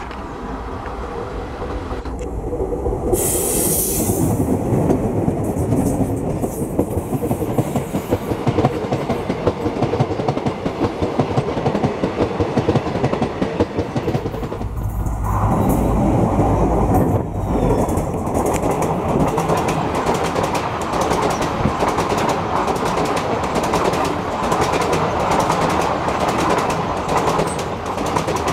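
An express train passing at speed: a diesel locomotive approaching and going by close to the track, then the coaches' wheels clattering rhythmically over the rail joints. The sound grows louder over the first few seconds.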